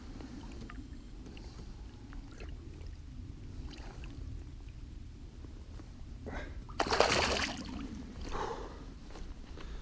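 Water splashing once at a small boat's side about seven seconds in, with a smaller splash a second later, over a low steady rumble and scattered light knocks and clicks.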